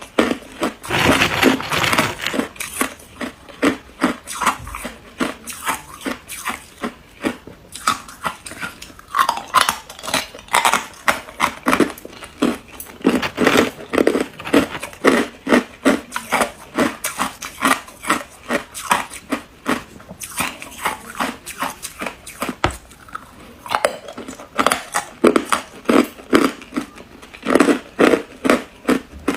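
Ice being chewed and crunched up close, in a quick run of sharp crunches at about three a second, with a short lull about two-thirds of the way through.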